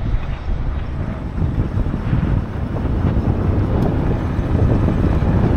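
Wind buffeting the microphone of a hand-held camera on a moving motorcycle, with the bike's engine and road noise underneath, growing steadily louder as the bike picks up speed.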